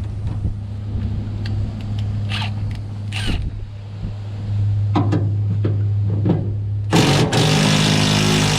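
Metal tools clinking and knocking against fittings on an old truck's front end, over a steady low hum; near the end a power tool runs loudly for about two seconds.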